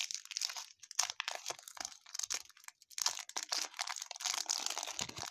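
Baseball card pack wrapper crinkling and crackling in irregular bursts as it is handled and opened, in a small room.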